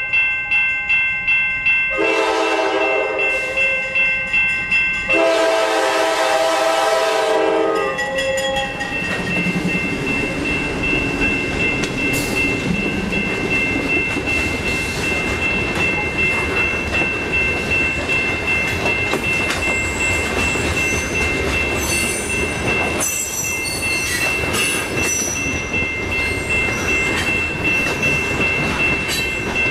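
Nathan K5LA air horn on a GE C40-8 locomotive blowing for the grade crossing, its last two long blasts ending about eight seconds in, over the pulsing ring of the crossing signal bell. The locomotives and a string of loaded covered hopper cars then roll past close by with steady wheel and rail noise while the crossing bell keeps ringing.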